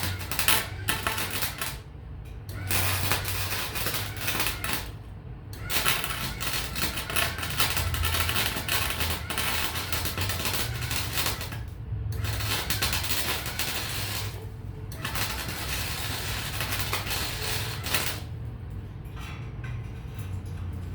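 Welding arc crackling on steel in several runs, with brief pauses between beads and a low electrical hum underneath.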